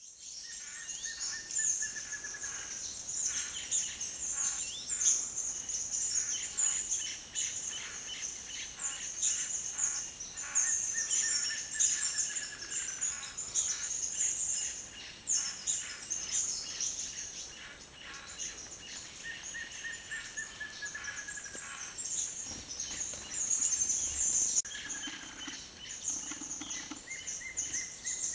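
Forest birds calling: a steady wash of rapid high chirps and trills, with a clear, falling whistle that comes back about five times.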